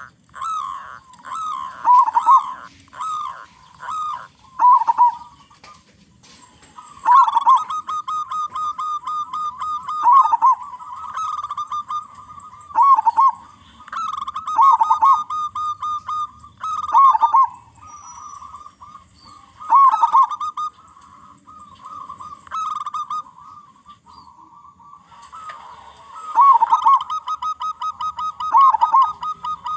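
Zebra dove (perkutut) cooing: repeated phrases of quick, evenly spaced notes on one pitch, each broken by dipping coos, with a couple of short pauses between phrases.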